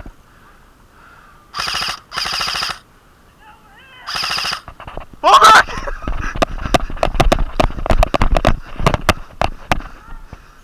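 Airsoft guns firing: three short full-auto bursts in the first half, then a long run of sharp single and rapid shots at uneven spacing.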